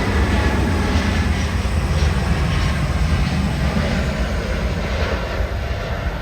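Boeing 787-9 jet engines running, a loud, steady low rumble that begins to fade near the end.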